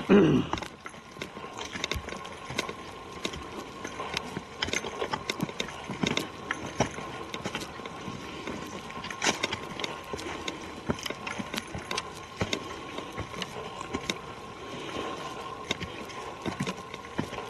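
Footsteps of hikers walking on a forest trail, an irregular run of crunching steps on leaves and twigs.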